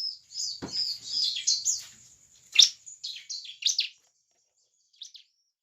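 Bar-winged prinia (ciblek) singing a rapid, high chattering song that stops about four seconds in, followed by one short call near the end. There is a soft low knock about half a second in.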